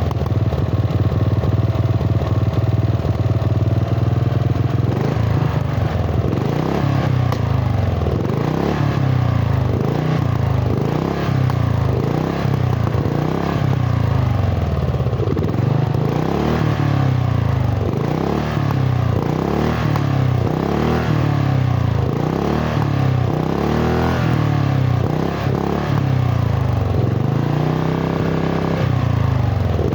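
Ride-on lawn tractor engine, freshly rebuilt after being flooded, running through its homemade exhaust. It holds a fairly steady speed for the first few seconds, then is revved up and down over and over, about once a second.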